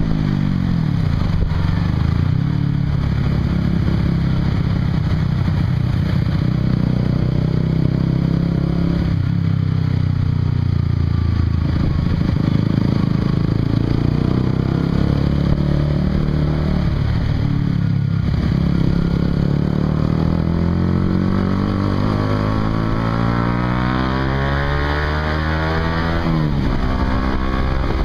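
Honda CBR150R's single-cylinder engine through a Yoshimura exhaust while riding. The pitch falls at the start, holds steady, then climbs as it accelerates, with a sharp dip and rise near the end.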